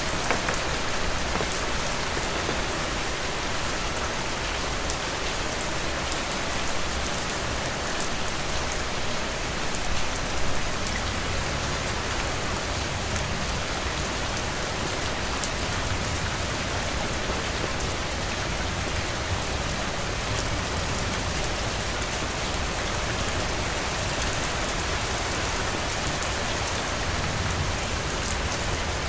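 Heavy rain falling steadily on a roof: a dense, even hiss of drops, with a brief louder swell about ten seconds in.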